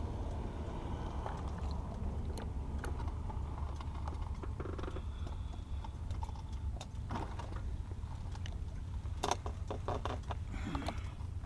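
Scattered sharp clicks and knocks over a steady low rumble, with a quick cluster of clicks about nine seconds in; handling noise of the recording device.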